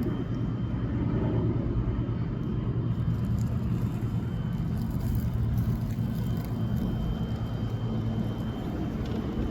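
A steady low rumble with a faint steady high tone above it.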